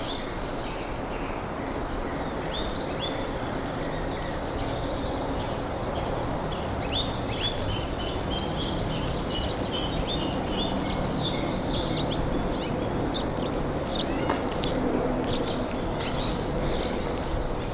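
Birds chirping: many short, quick calls repeating throughout, over a steady rushing background noise.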